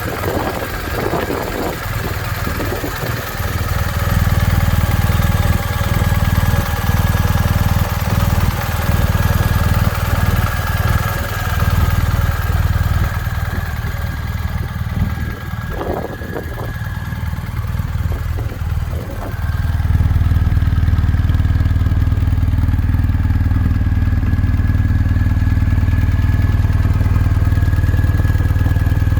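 Motorcycle engine running steadily, with a few knocks in the first seconds and again a little past the middle; about two-thirds of the way in it gets louder and stays even.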